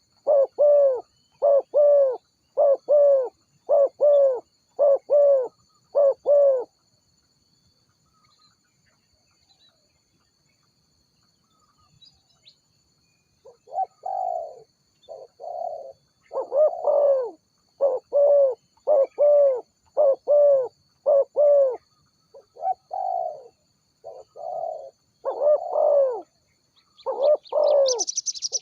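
Spotted doves cooing: quick runs of hoarse coos, about two notes a second, that stop for about seven seconds and then start again in a more uneven pattern. Near the end a higher, thinner chirping of another bird comes in.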